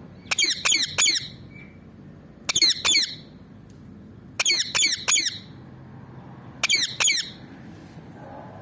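Ringneck parakeet giving shrill, repeated calls in quick groups of two or three, four groups in all.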